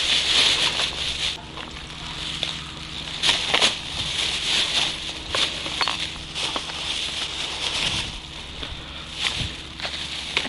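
Rustling and plastic crinkling with scattered crackles and snaps as litter is picked up and stuffed into a plastic bag, over a faint steady low hum.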